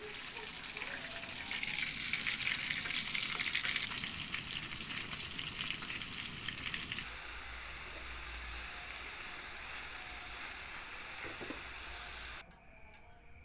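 Stuffed tofu fritters deep-frying in hot oil, a dense sizzling crackle. About seven seconds in it turns softer and more even, and a little before the end it cuts off to a much quieter background with a faint steady high tone.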